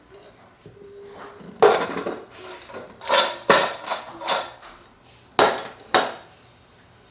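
Hard objects clattering and knocking together: about seven sharp clatters, several of them bunched together in the middle.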